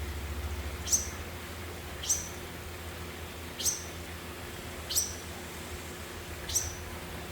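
Parent bird shrilling: a short, sharp, very high call repeated five times, about every second and a half. The parents are calling their fledglings as the young leave the nest.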